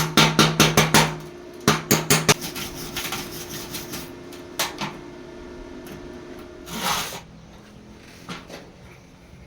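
Rapid hammer blows on metal, about six a second, for the first second and a half, then a few more blows. After that come quieter scattered knocks and rubbing of metal being worked, with one short scraping swish near the end.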